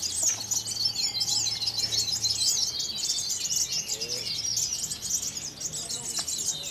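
Many caged songbirds singing at once: a dense, unbroken chorus of overlapping high chirps, fast trills and short down-slurred whistles.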